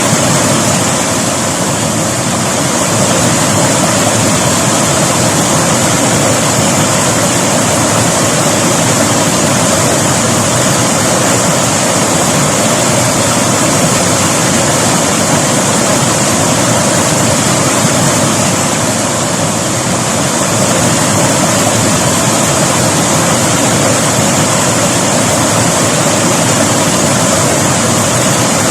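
River water rushing steadily over rocks, a loud, unbroken hiss with no pauses or distinct events.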